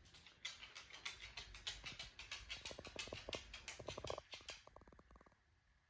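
Faint, rapid clicking and pattering, several light ticks a second, such as a small dog's claws make on a hard floor; it stops near the end.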